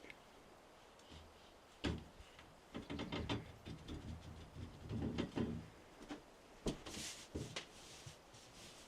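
A sharp knock, then a run of knocks and thuds lasting a few seconds, and one more sharp knock later on, like a door or cupboard being handled.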